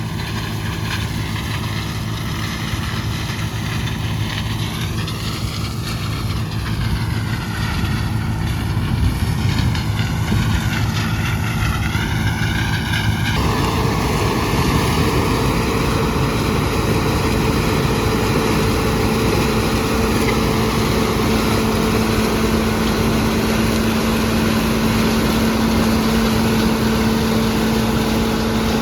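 John Deere 6600 combine running steadily. About halfway through, the drone changes suddenly and a new steady hum sets in and holds.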